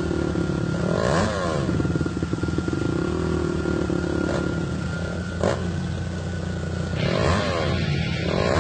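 Quad bike engine running, revving up and down a few times, with a couple of sharp clicks in the middle.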